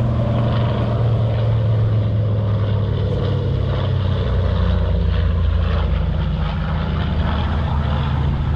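Steady low engine drone with an even hum that holds its pitch and level throughout, then cuts off abruptly.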